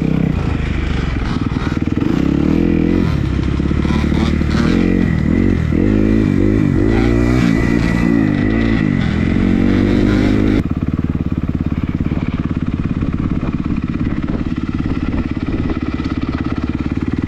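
Kawasaki KX250F's single-cylinder four-stroke engine under way on a dirt trail, revving up and down with the throttle. About ten seconds in the sound changes abruptly to a steadier engine note.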